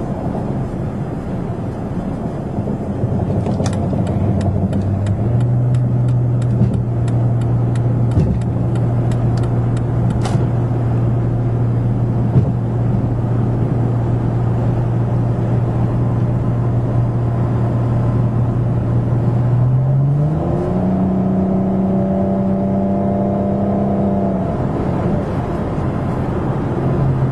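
Dodge Charger V6 with a Magnaflow dual exhaust, heard from inside the cabin while driving: a steady exhaust drone that steps up a little about five seconds in. About twenty seconds in the pitch rises as the car is accelerated, holds for a few seconds, then eases back. A light clicking about twice a second sounds for several seconds early on.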